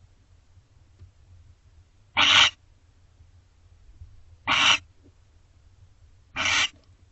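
Barn owl giving three short, harsh hissing screeches, about two seconds apart.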